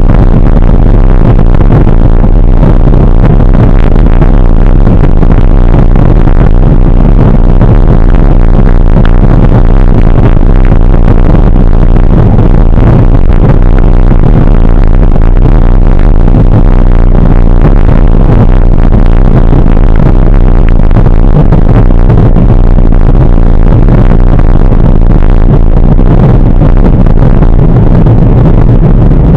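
Loud, unbroken rumble of riding noise, the steady low roar of a moving ride overloading the microphone.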